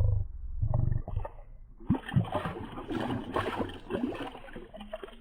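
River water sloshing and splashing around a wader in the shallows, with two short low rumbles in the first second.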